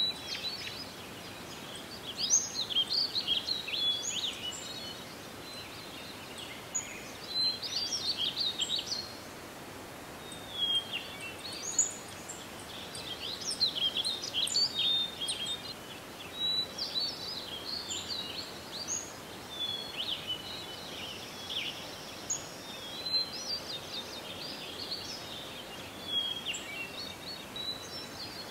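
Songbirds singing: bursts of quick, high chirps and trills with short pauses between, over a steady background hiss.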